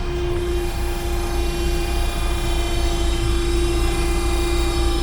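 Steady machine drone: a low rumble with a constant mid-pitched whine over it, unchanging throughout.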